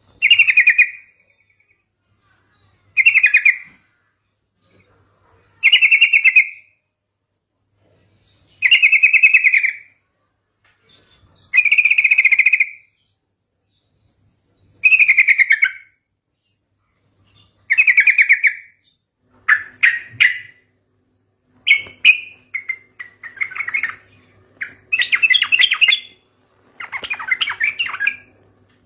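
Yellow-vented bulbul (trucukan) song used as a lure: short, bubbly, rapidly pulsed phrases repeated about every three seconds. From about two-thirds of the way in, the phrases come quicker and more varied.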